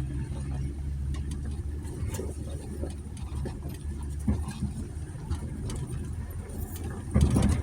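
2020 Jeep Gladiator's V6 engine running steadily at low crawling speed, with scattered brief clicks and scrapes of brush and branches rubbing along the truck's body, and a louder scrape about seven seconds in.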